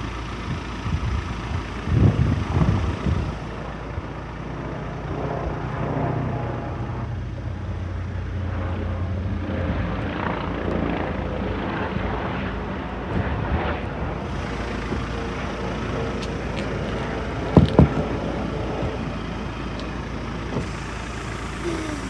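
A motor vehicle's engine running steadily at idle, with a few knocks about two seconds in and a sharp double knock near the end.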